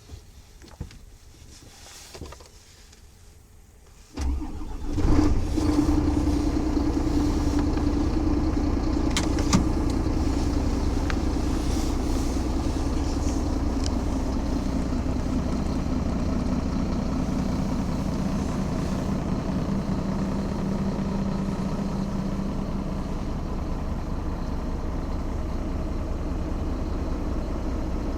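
Scania G380's 11.7-litre turbo-diesel engine starting about four seconds in after a few clicks, rising briefly, then settling into a steady idle.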